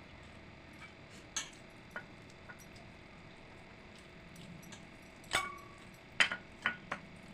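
Dishes clinking during a meal: a few light knocks on tableware, a louder one about five seconds in that rings briefly, then a quick run of three near the end.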